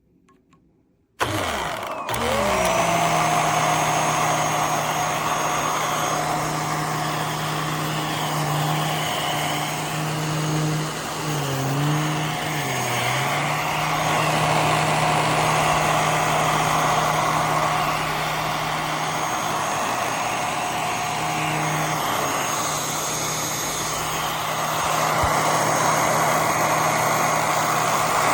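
A motor starts about a second in, its pitch climbing as it spins up, then runs at a steady speed. Its pitch sags briefly twice near the middle, as if put under load.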